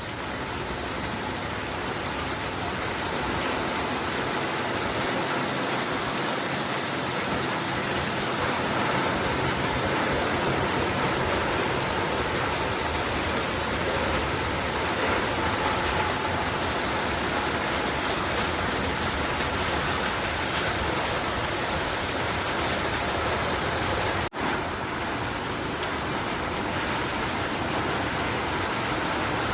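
Heavy rain falling in a steady downpour, an even hiss that briefly cuts out once about three-quarters of the way through.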